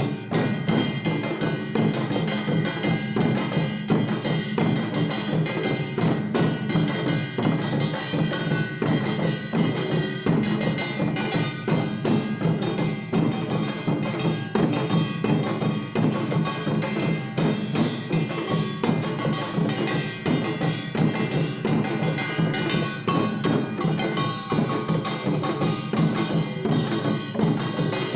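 Traditional Korean percussion ensemble (samul nori) playing a fast, dense rhythm: drum strokes from the jang gu hourglass drum and buk barrel drum under the ringing of the kkwaenggwari small gong and jing large gong.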